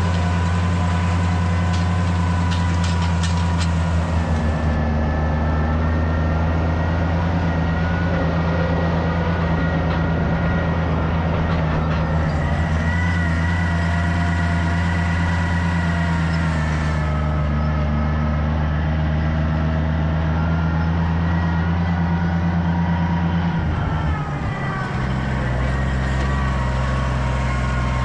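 Farm tractor engine running steadily under load, with a faint higher whine above the engine note; about 23 seconds in the engine note drops and changes.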